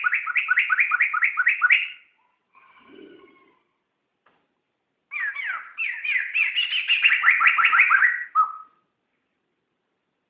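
Poksay (laughingthrush) singing two loud phrases of fast, rapidly repeated chattering notes. The first phrase breaks off about two seconds in. A soft, brief call follows, and the second phrase runs from about five to eight and a half seconds, ending on a short held note.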